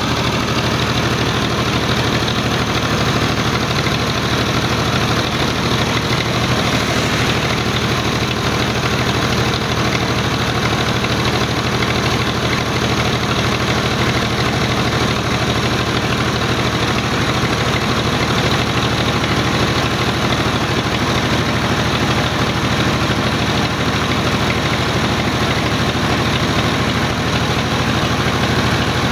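Tractor diesel engine running steadily, driving the trolley's hydraulic jack as it slowly tips the load of sand.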